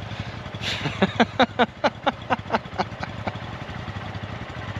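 A small single-cylinder motorcycle engine idling steadily. About a second in, a quick run of about a dozen short chirps comes over it, some five a second for about two seconds.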